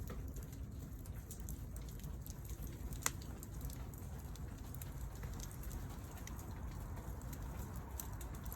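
Wood fire crackling, with scattered small pops and one sharp snap about three seconds in, over a low steady rumble.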